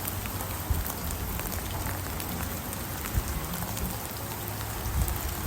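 Rain falling steadily, with scattered individual raindrops ticking close by.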